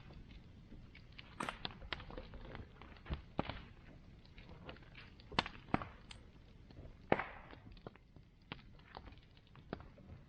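Wood bonfire crackling: irregular sharp pops and snaps of burning wood over a low steady rush, with a few louder pops scattered through.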